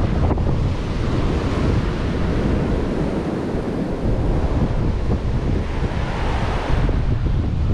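Ocean surf washing on a beach, with wind buffeting the microphone as a low rumble; the surf swells briefly near the end.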